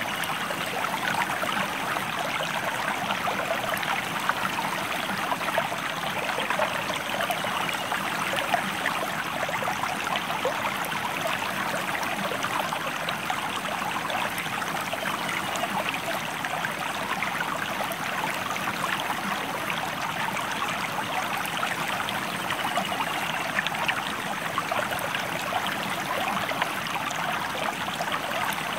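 A river or stream flowing steadily, a continuous even rush of running water.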